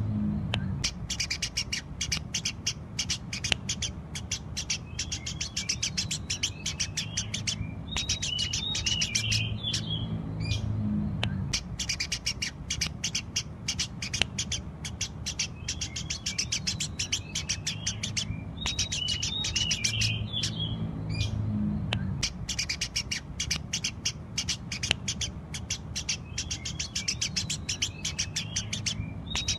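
Eurasian tree sparrows chirping rapidly and continuously in long runs of sharp chirps, broken by short pauses every few seconds, over a low steady hum.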